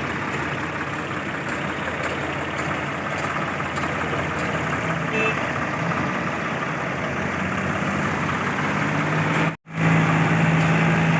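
Tractor diesel engine running steadily. A brief break about nine and a half seconds in, after which the engine hum is louder and steadier.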